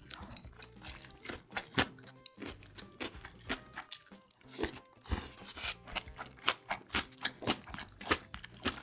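Close-miked eating: chewing kimbap and crisp shredded radish kimchi (musaengchae), a steady run of sharp crunches, two or three a second.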